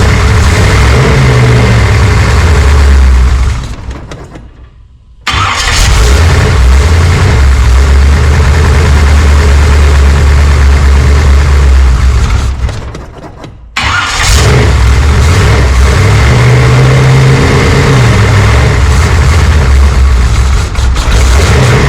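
406 cubic-inch small-block Chevy V8 running loudly, its sound strongest in the deep bass. The sound fades away twice, around four and twelve seconds in, and each time comes back suddenly at full level.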